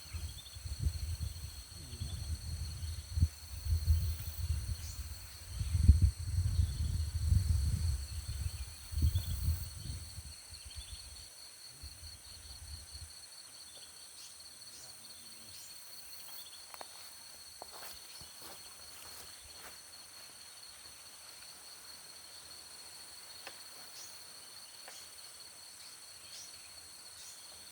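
Steady high buzzing of forest insects throughout. For the first ten seconds or so, loud irregular low rumbling and knocks, like handling or wind on the microphone, lie over it.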